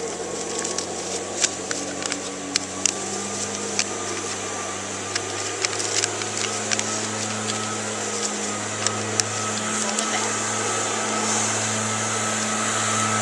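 Sheet of paper crinkling and creasing in short, sharp crackles while an origami petal fold is made by hand, over a steady low hum.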